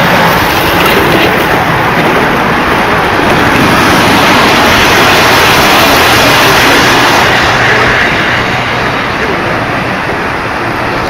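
O-scale model trains running on the layout's track, a steady rumble that swells in the middle and eases after about eight seconds, as if a train passes close by.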